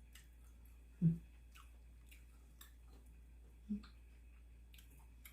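A person chewing a mouthful of beef noodle soup, with soft wet mouth clicks scattered throughout. Two brief low sounds come about a second in and again near the four-second mark.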